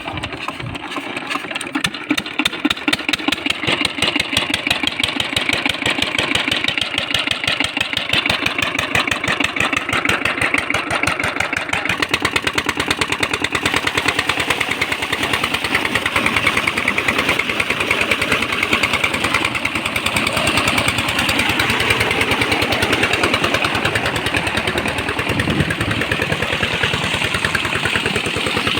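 Tractor engine running with a rapid, even chugging, growing louder over the first couple of seconds and then holding steady.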